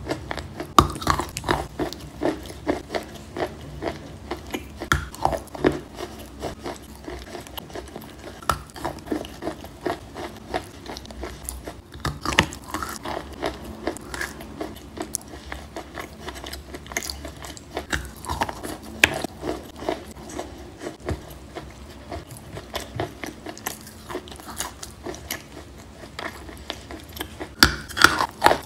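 Someone biting and chewing wet chalk coated with chalk paste: many short, irregular crunches and wet mouth clicks, coming thicker near the end.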